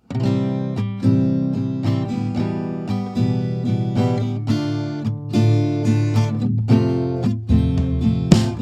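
Background music: acoustic guitar, plucked and strummed, starting abruptly.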